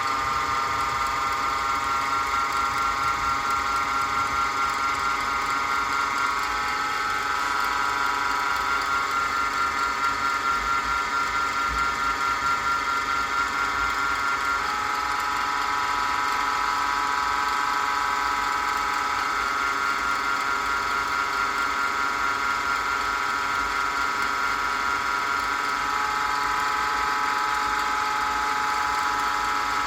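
Wood lathe running at a steady speed, its motor giving a constant whine that shifts slightly in pitch a couple of times.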